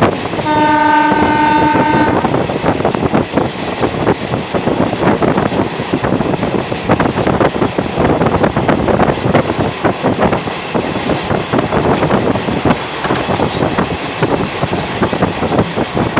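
A train's horn sounds once, a steady tone for about a second and a half near the start. After it comes the continuous rumble and rattle of the train running on the rails.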